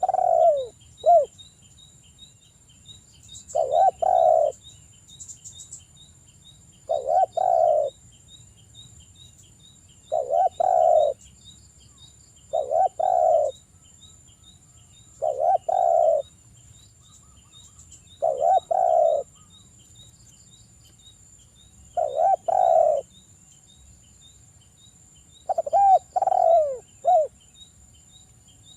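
Spotted dove (derkuku) cooing in short, repeated phrases, one about every three seconds, the persistent singing used as a lure call to set other doves singing. A faint, rapid, high ticking runs steadily behind it.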